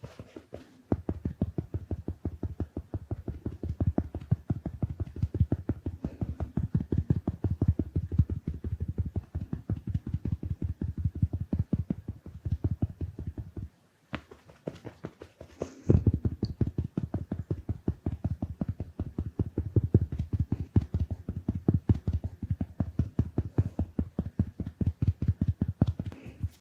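A big makeup sponge patted quickly and repeatedly against a microphone or camera lens, giving soft, low, muffled dabs several times a second, with a brief pause about halfway through.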